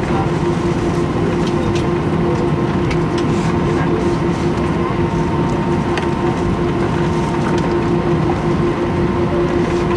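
Airbus A319 cabin noise while taxiing: a steady roar from the idling jet engines and air conditioning, with a constant hum-tone running through it.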